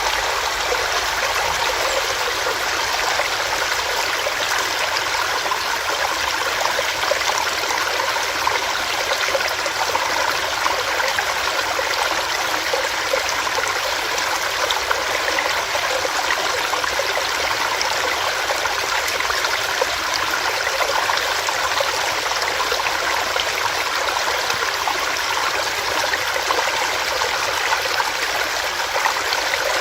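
Small rocky stream, water running steadily over rocks with a constant rushing and bubbling.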